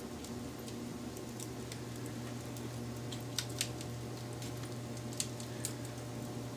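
Wood fire crackling: scattered sharp pops and snaps, two close together about three and a half seconds in, over a steady low hum.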